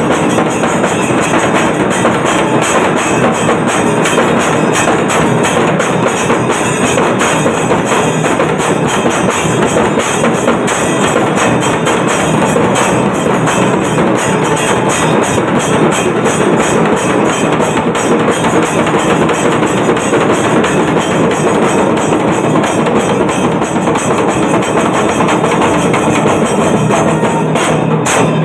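Kailaya melam temple percussion ensemble drumming at a fast, steady beat, loud and unbroken.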